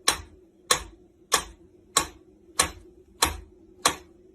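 Sharp clicks repeating at an even pace, about one and a half a second, over a faint steady hum.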